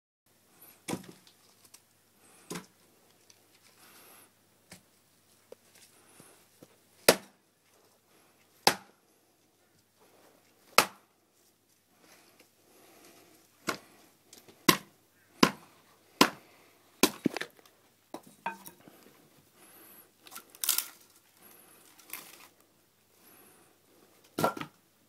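Axe chopping firewood: about a dozen sharp wooden strikes at uneven intervals, with brief cracking and splintering between some of them.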